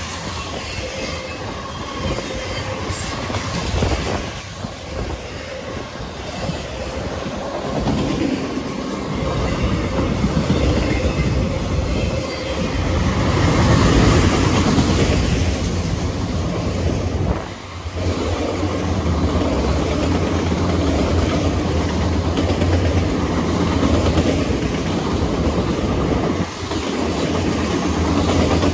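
A freight train's cars rolling past, steel wheels clacking over the rail joints.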